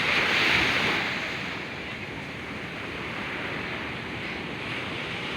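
Ocean surf: a wave washing in, loudest in the first second, then a steady wash of water.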